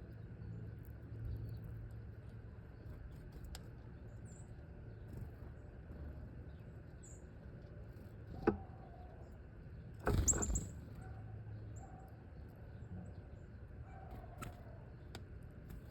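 Faint, high wild-bird chirps over a steady low hum of distant traffic. There is a sharp tap about eight and a half seconds in, and a short louder burst with a high chirp around ten seconds in.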